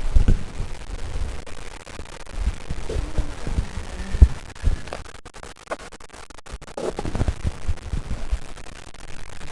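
Irregular low thumps and scratching rustles, like a microphone or recording device being handled, with a few faint murmurs.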